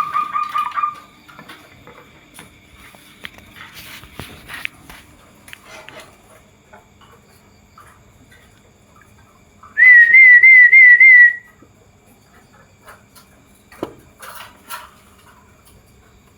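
Zebra dove (perkutut) calling: a held whistled note that ends about a second in, then a loud, wavering whistled note about ten seconds in that lasts under two seconds. A few faint clicks fall between the calls.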